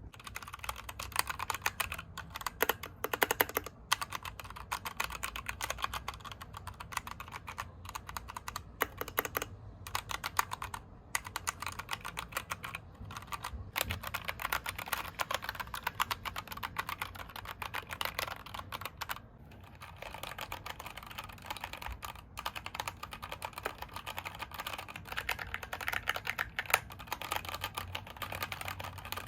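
Typing on a COX mechanical keyboard with Gateron Brown switches: a fast, continuous run of key strokes, broken by a few brief pauses.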